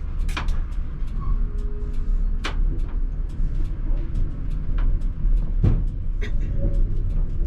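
Inside a ČKD Tatra T3R tram: a steady low rumble from the running gear, with scattered clicks and rattles and two louder knocks about 2.5 and 5.7 seconds in.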